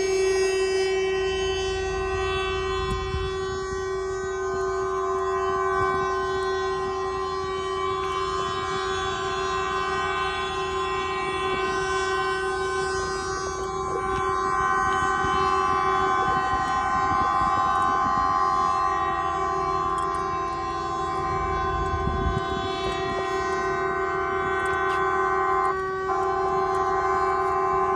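Truck air horns held on continuously as one steady, sustained tone, with a brief break about two seconds before the end.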